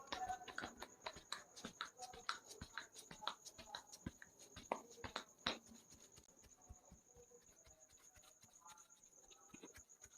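Hands patting and tapping on a head and skin during a massage: quick irregular slaps for the first five seconds or so, then only a few. A steady high chirring of crickets runs underneath.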